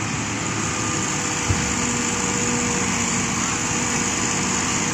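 Hitachi Zaxis 200 hydraulic excavator diesel engines running steadily, with one short low thump about a second and a half in.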